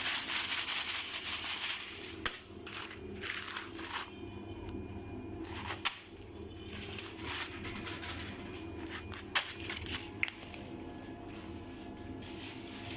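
Horizontal continuous band sealer running with a steady low hum, while a three-layer aluminium foil bag crinkles in several bursts as it is handled, the loudest in the first couple of seconds, with a few sharp clicks.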